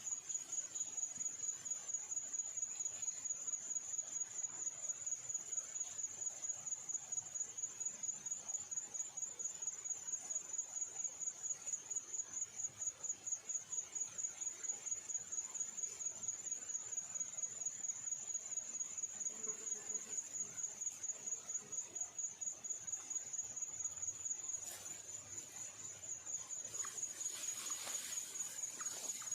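An insect trilling steadily at a single high pitch, the trill pulsing rapidly without a break. A brief scratchy noise comes in near the end.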